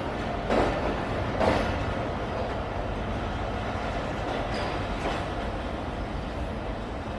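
Karachi Circular Railway passenger train running along the track: a steady rumble with two louder knocks about half a second and a second and a half in, and fainter knocks later.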